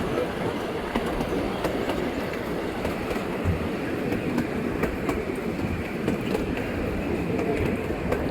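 Scenic railway train running along its track, heard from aboard the carriage: a steady running noise with scattered, irregular clicks from the wheels.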